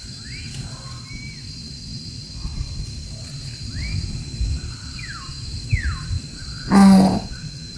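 Several short whistled bird calls, each a quick slide up or down in pitch, over a steady thin high hum and low rumble. About seven seconds in, one loud, short, pitched call.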